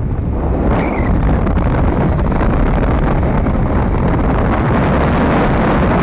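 Wind buffeting the microphone of a moving motorcycle, over the low rumble of the ride.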